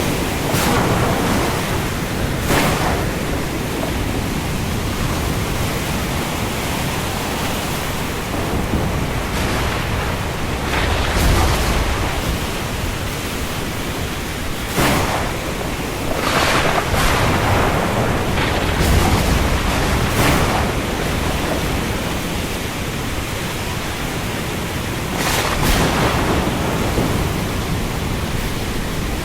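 Heavy rain falling on the open sea, a steady hiss over a deep rumble of water, with brief surges every few seconds as waves or gusts swell.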